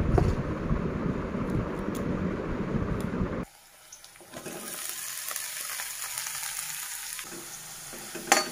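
Vegetables frying in oil in a wok with a spatula stirring: a louder, rougher stretch first, then a sudden cut about three and a half seconds in to a quieter, steady sizzle.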